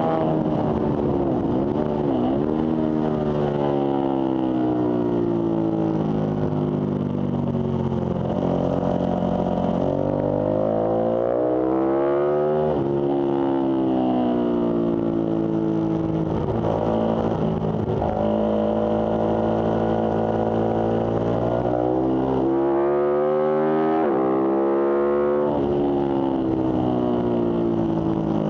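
Ducati sportbike's V-twin engine heard from the rider's seat on track, revving up hard through the gears with its pitch climbing in repeated sweeps, then falling away several times as the throttle closes, over a steady hiss.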